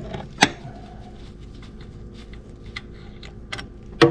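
Scattered light clicks and taps of hand tools against metal in an engine bay, with a sharp click about half a second in and a louder knock near the end.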